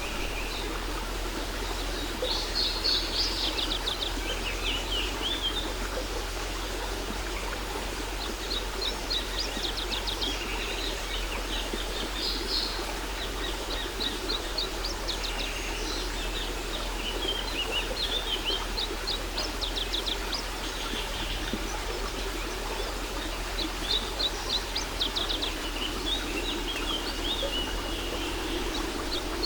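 Songbirds chirping in quick trills that come and go every few seconds, over the steady rush of a waterfall.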